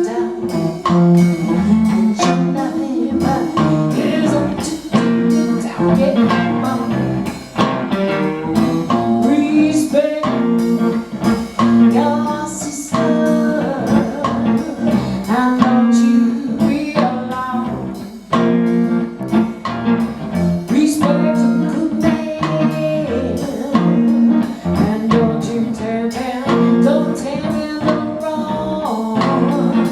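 Blues band playing live, a guitar to the fore with singing.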